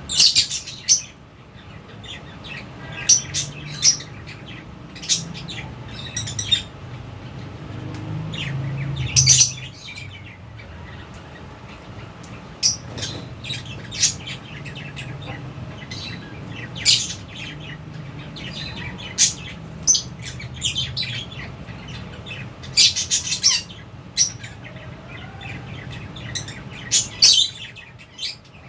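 A flock of lovebirds in an aviary chirping, with many short, sharp, high-pitched calls at irregular intervals over a steady low hum.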